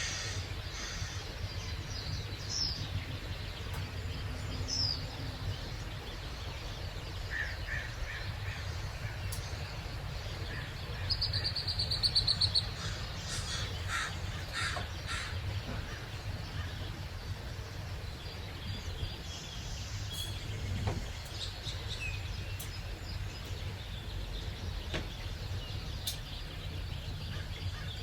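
Birds calling and chirping at dawn, several short scattered calls, with a fast, loud trill about eleven seconds in, over a steady low rumble.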